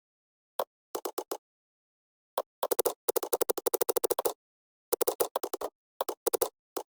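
Computer keyboard typing picked up through a noise-gated microphone: scattered single keystrokes, then a fast run of about twenty keystrokes in the middle, then short groups of keystrokes.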